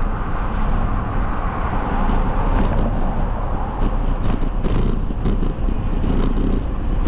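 Steady rush of wind buffeting the microphone and road noise while riding a bike, with short rattles and clicks scattered through it.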